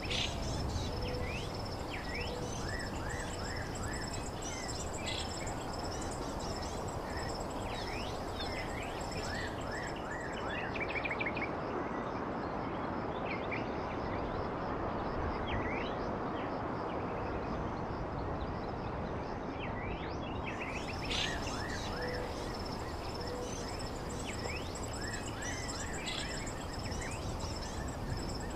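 Small songbirds chirping: many short, quick sweeping chirps scattered throughout, over a steady high pulsing trill like insects and a constant rushing background noise.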